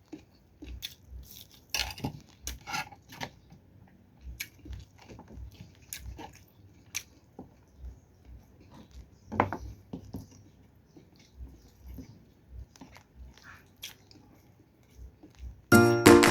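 Close-up chewing and biting on fried dried fish (tuyo): irregular crunches and mouth clicks. Loud music comes in near the end.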